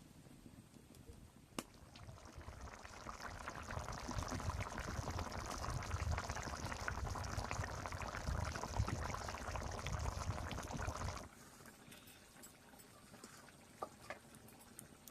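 Liquid being poured in a steady stream, with a low gurgle and small splashes, for about nine seconds before stopping abruptly.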